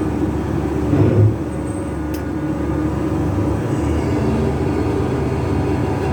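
Shrimp trawler's engine running steadily, with a brief louder low surge about a second in and a short sharp click near two seconds.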